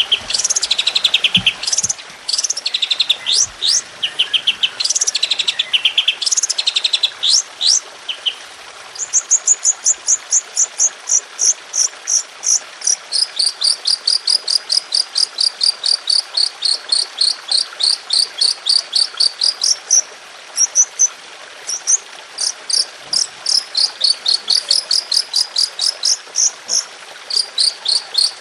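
Songbird masteran recording of rapid 'tembakan' song. It opens with quick high sweeping notes and buzzy trills, then settles into long, tight runs of sharp repeated high notes at about four a second. The runs pause briefly about two-thirds of the way through, then resume.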